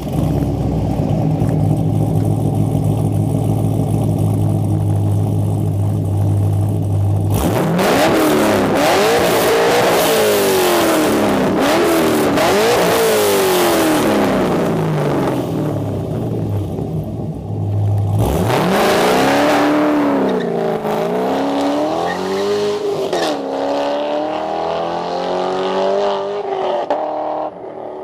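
Chevrolet Corvette C7 Stingray's 6.2-litre V8 idling steadily, then revved over and over, its pitch climbing and falling with each blip. After a few seconds back at idle it is revved again, held higher near the end, then dropping back.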